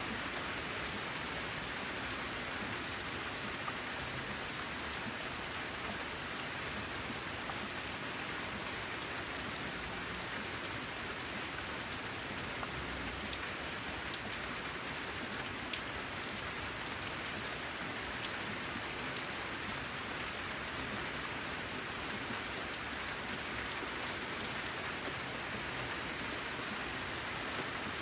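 Steady rain falling, an even hiss with scattered sharp drop ticks standing out.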